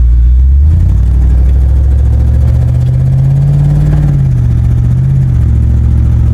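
Truck engine running on wood gas from a wood gasifier, heard from inside the cab while driving. The engine's pitch steps up about a second in, rises a little more, then drops back just after five seconds.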